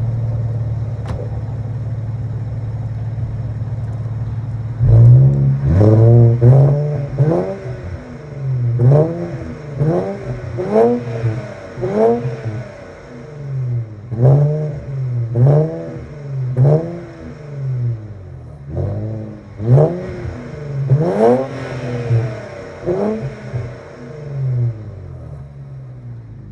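Infiniti Q50S engine through a muffler-delete exhaust, idling steadily, then revved in quick blips again and again from about five seconds in, each rev rising and falling back, before settling to idle near the end.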